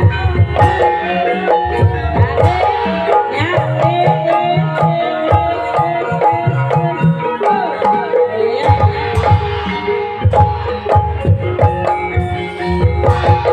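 Gamelan music accompanying an ebeg hobby-horse dance: kendang hand drums play a driving pattern under melodic lines.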